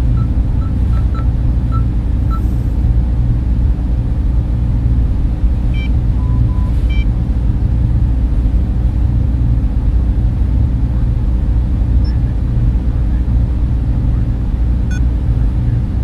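Steady low rumble and whir of data-center server fans and cooling equipment, with a few faint short electronic beeps over it.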